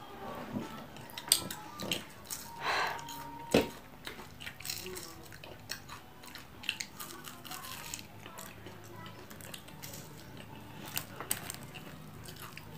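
Close-up eating sounds: chewing and crunching of crispy fried tilapia, with scattered small clicks and crackles as fingers pick the fish apart.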